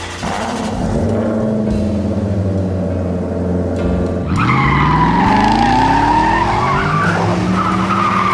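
Dubbed car sound effects: an engine running steadily, then revving up about four seconds in as tires squeal in a long, wavering skid.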